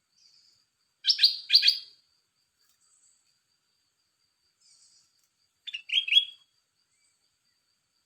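A caged red-whiskered bulbul singing two short, loud phrases of quick notes, one about a second in and another near six seconds. A faint, rapid, insect-like ticking runs underneath.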